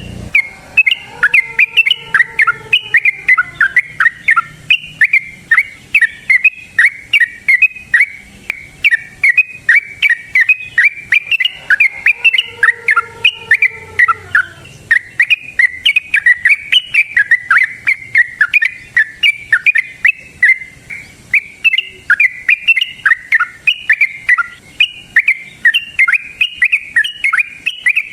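Yellow-vented bulbul (trucukan) singing a long, rapid, unbroken run of short chattering notes, several a second. A fainter, lower sliding call comes in twice, about a second in and again near the middle.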